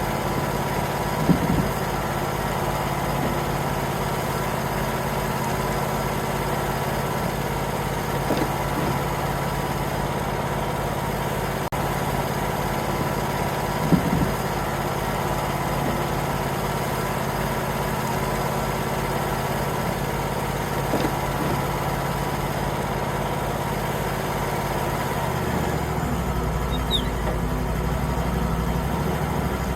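Engine of a Wood-Mizer LT35 portable bandsaw sawmill running steadily, with a couple of brief taps. About 25 seconds in, the engine note drops and a heavier low rumble comes in.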